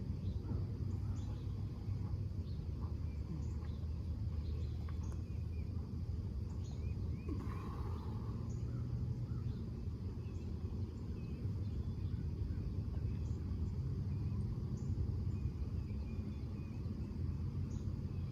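Outdoor ambience: a steady low rumble with faint short bird chirps scattered throughout.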